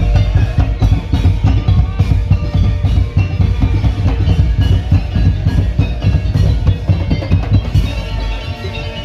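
Madurese ul-daul (tong-tong) percussion ensemble playing loud, dense, fast drumming with a heavy bass beat and pitched melodic notes over it.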